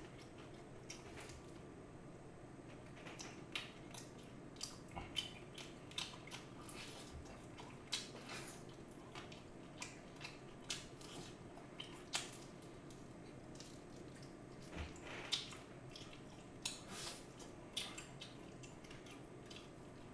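Close-miked eating of seasoned fried chicken: biting, tearing and chewing, heard as scattered short wet mouth clicks and crunches at irregular intervals.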